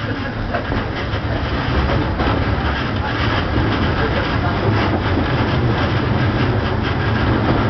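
Fuji Kyuko electric train running along the line, heard from inside the driver's cab: a steady low hum with rail and wheel noise, slowly getting louder.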